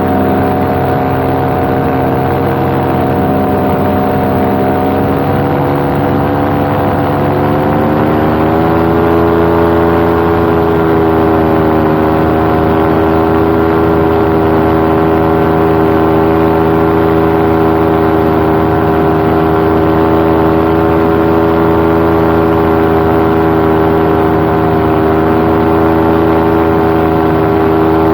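Paramotor engine and propeller running steadily in flight. Between about six and ten seconds in, the pitch rises a little, as though the throttle is opened, and then it holds a constant drone.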